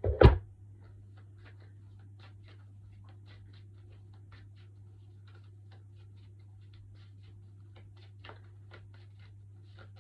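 A single sharp knock, then a steady low hum with faint, irregular ticks scattered throughout.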